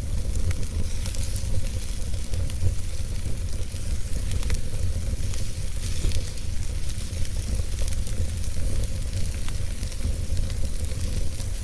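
Wood fire crackling in a fireplace: many small, irregular pops over a steady low rumble.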